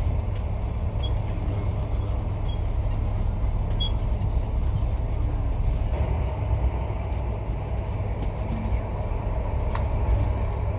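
Steady low rumble of a vehicle in motion, with a few faint clicks and creaks over it.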